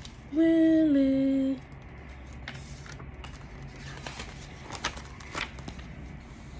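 A woman sings the word "Willie" in two long held notes, the second a step lower. Then come a few faint paper rustles and clicks as the picture book is handled.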